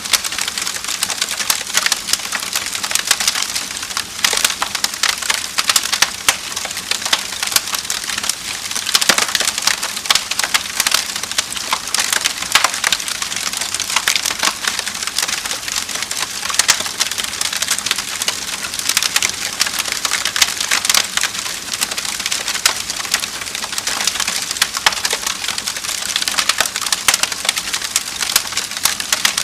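Wood fire crackling and popping: a dense, continuous crackle of small sharp snaps.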